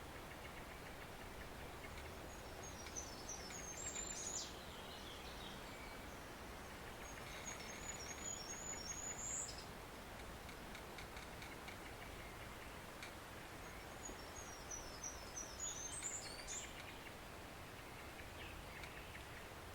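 Forest stream running steadily, with a songbird singing three short phrases a few seconds apart, each a quick run of high notes ending in a flourish.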